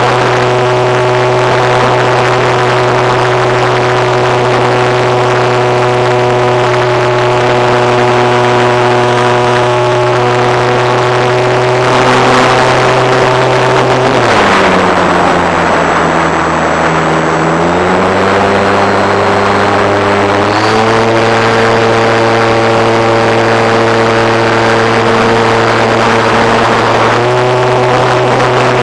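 RC model airplane engine and propeller running steadily. It is throttled back about halfway through, the pitch dropping and wavering, then opened up again over the next several seconds.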